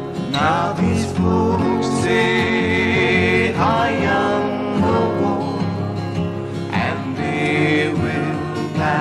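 Acoustic guitar music with a melody line that slides up into its notes and wavers with vibrato: an instrumental or wordless stretch of a slow folk-style song.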